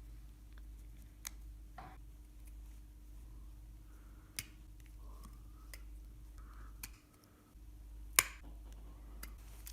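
Scattered light clicks and taps of small wooden engine parts being handled, with one sharper click near the end, over a faint steady hum.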